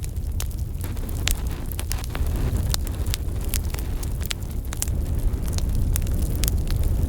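Wood fire burning in a fireplace: frequent irregular crackles and sharp pops over a steady low rumble of the flames.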